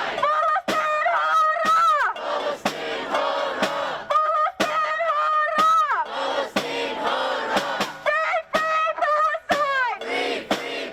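Protest crowd chanting a slogan in unison, with sharp beats about every two-thirds of a second keeping the rhythm.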